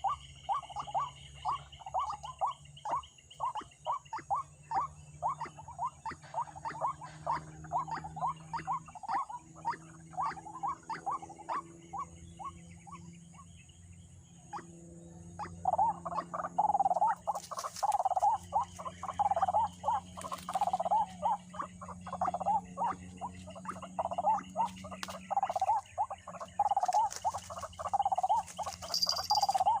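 White-breasted waterhen 'ruak-ruak' calls: a long run of harsh repeated notes, about two or three a second. The run fades out and stops for a few seconds about halfway, then starts again louder.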